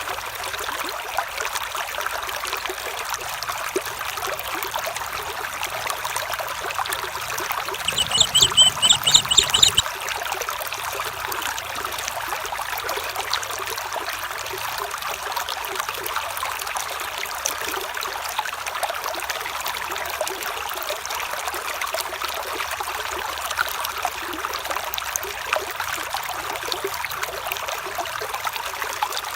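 Steady trickling and babbling of a small stream. About eight seconds in, a brief, high, rapidly pulsed call sounds over the water for about two seconds.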